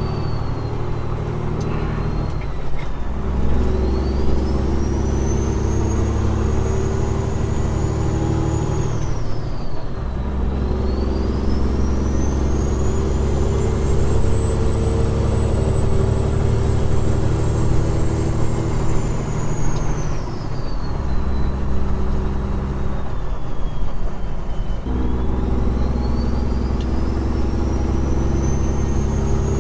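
Peterbilt 389 glider's diesel engine pulling steadily, with a high turbo whistle that rises, holds and falls away. The engine note drops out briefly about three seconds in, around ten seconds in, and again for a few seconds past twenty seconds.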